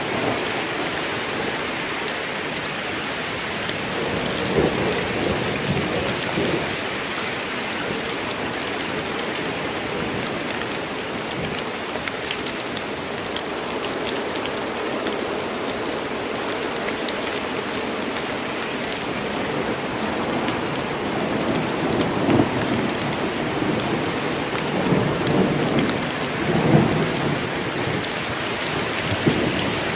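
Steady heavy rain in a forest: a dense hiss of falling drops with scattered sharper drip ticks. Low rumbles of thunder swell about four seconds in and again from about twenty-two to twenty-seven seconds.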